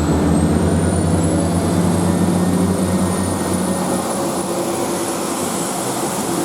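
Two-car Class 175 diesel multiple unit pulling away, its underfloor diesel engines running under power with a low throb that quickens, then eases off after about four seconds. A high, thin whine rises and then holds steady.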